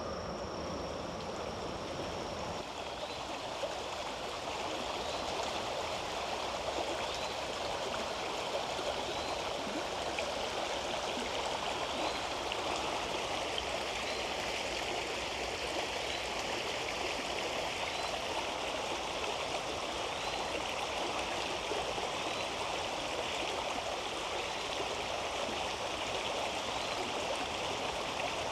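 Stream water running steadily. A faint high chirp repeats about once a second from a few seconds in.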